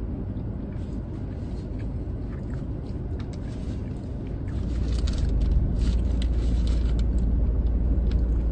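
Low steady rumble of a car's idling engine heard inside the cabin, growing louder about halfway through and then holding. Light crinkling of a paper food wrapper and small eating noises are heard over it.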